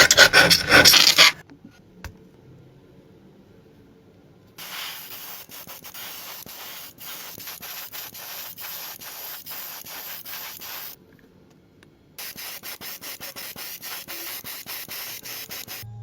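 Hand sanding of a small metal toy car body, rubbing back and forth in quick repeated strokes. A louder burst stops about a second in; after a few quieter seconds the strokes run in two long spells with a short pause between them.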